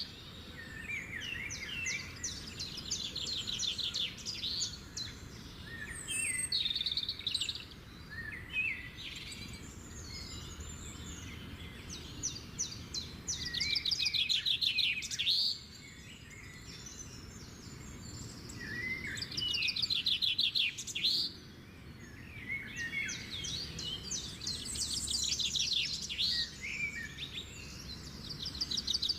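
Small birds chirping and giving rapid rattling trills in repeated bursts every few seconds, over steady outdoor background noise.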